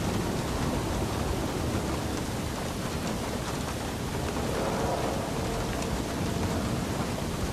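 Steady heavy rainfall, a dense even patter, over a low continuous rumble of distant thunder.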